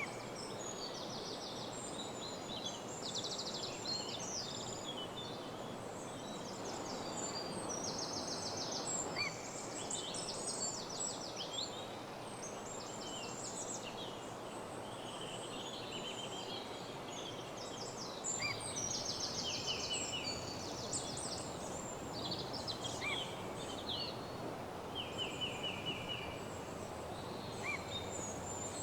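Woodland dawn chorus: several songbirds singing at once, with fast repeated trills and short high chirps overlapping throughout, over a steady background hiss.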